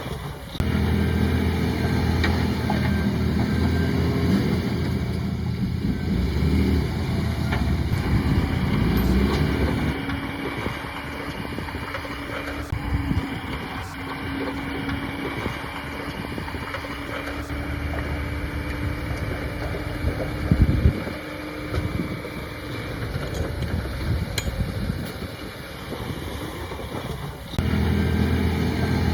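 Heavy diesel engine of earthmoving machinery running steadily under load, its note shifting several times. A single heavy thud comes about two-thirds of the way through.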